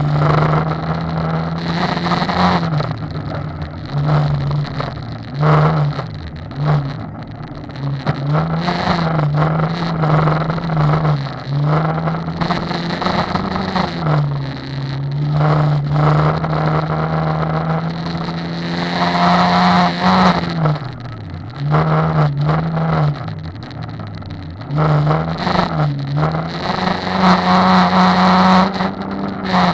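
Rally car's engine heard from inside the cabin at speed on a gravel road. Its pitch climbs and drops again and again as the driver shifts gears and lifts off, with frequent knocks from stones and bumps against the car.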